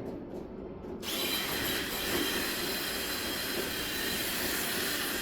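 Radio-controlled monster trucks launching off the start line about a second in. Their motors and geared drivetrains give a steady high whine over a dense hiss.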